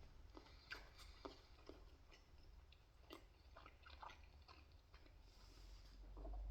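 Faint chewing of pizza: scattered soft mouth clicks, with a low rumble rising near the end.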